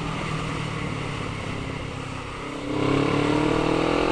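Motorcycle engine running through an aftermarket Black Widow stainless steel full exhaust system, holding a steady note and then revving up with a rising pitch and growing louder near the end.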